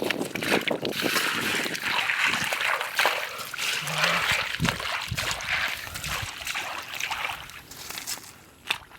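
Shallow water splashing and sloshing in irregular bursts, fading near the end.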